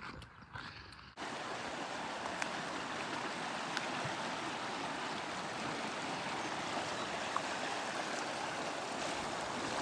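River water rushing steadily, a continuous even hiss that begins abruptly about a second in.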